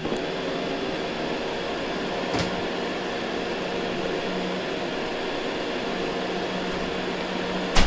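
Ecovacs Deebot N79 robot vacuum running over carpet, a steady mechanical hum with a low tone under it. A light click comes a couple of seconds in, and a sharp knock near the end.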